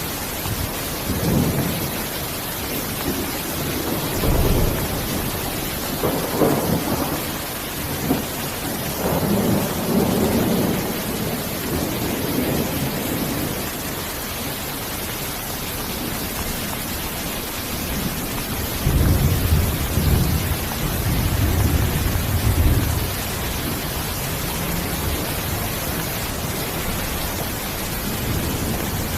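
Steady, even hiss of rain with low rolls of thunder rumbling several times, the longest and loudest about two-thirds of the way through.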